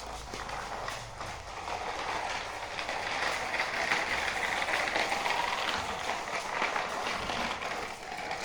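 Rapid mechanical clicking and rattling, like small gears or a ratchet running, growing louder about three seconds in and easing off near the end.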